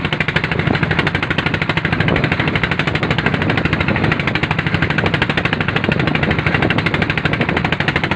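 Strong wind buffeting the microphone: a loud, dense, rapidly fluttering rumble with no break.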